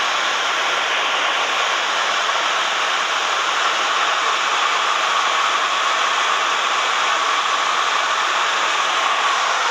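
Steady rushing noise of a Cessna 172M's engine and propeller with the airflow around the cabin, holding an even level throughout.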